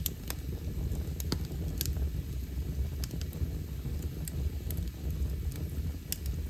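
Wood fire burning in a fireplace: irregular sharp crackles and pops, about a dozen, over a steady low rumble.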